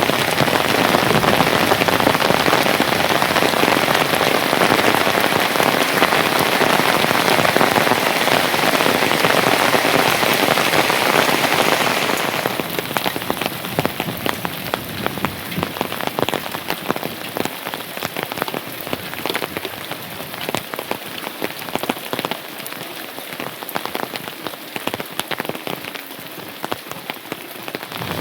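Rain falling steadily as a dense hiss of drops. About twelve seconds in it changes abruptly to a quieter patter of separate drops.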